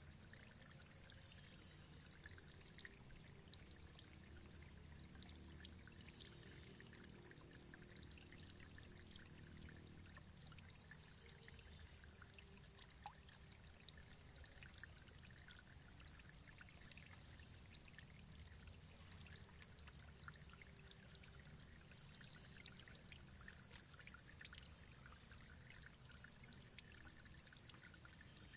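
Faint, steady running water, pouring and trickling, with many small droplet ticks scattered through it. A steady high-pitched whine lies beneath it.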